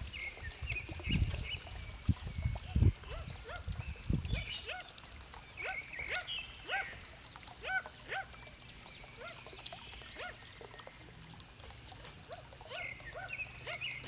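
Captive kowak kaok birds calling: a run of many short, arching chirps and squawks, some overlapping. Dull low thumps sound during the first few seconds.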